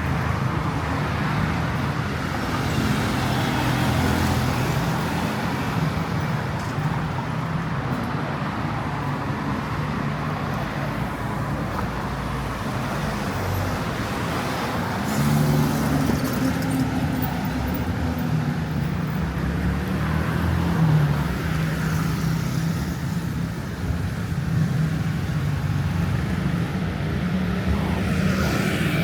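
Street traffic: vehicle engines running with a steady low hum over road noise.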